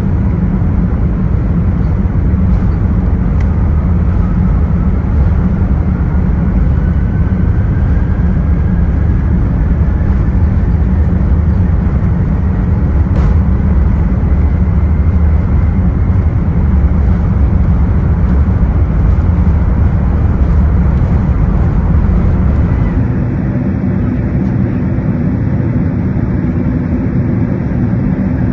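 Airbus A380 cabin noise from the lower deck: a steady, loud rumble of the engines and the airframe, with a faint rising whine in the first half. About three-quarters of the way through the deep rumble drops away, leaving a smoother, steadier hum.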